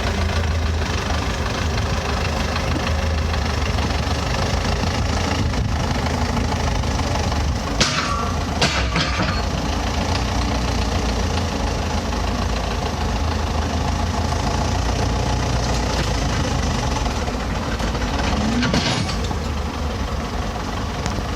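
Engine of heavy land-clearing machinery running steadily, with two short sharp sounds about eight and nine seconds in.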